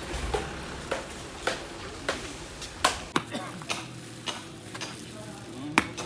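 Irregular sharp clicks and knocks, roughly one or two a second, over faint background voices.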